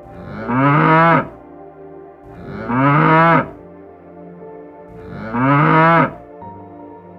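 A cow mooing three times, each call about a second long and rising then falling in pitch, repeated at even spacing about two and a half seconds apart. Soft ambient music plays quietly beneath.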